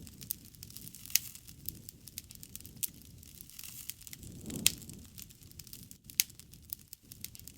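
Wood fire crackling: irregular sharp pops and snaps over a low rumble of burning, with the loudest pop and a brief swell of the rumble a little past halfway.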